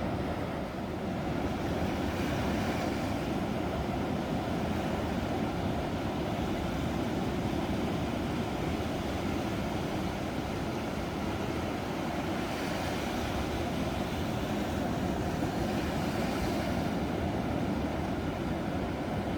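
Ocean surf: a steady low rumble of breaking waves, with the hiss of the wash swelling about two seconds in and again for several seconds past the middle.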